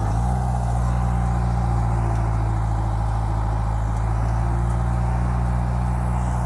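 Bulldozer's diesel engine running steadily under load, its note holding level after a slight shift just after the start.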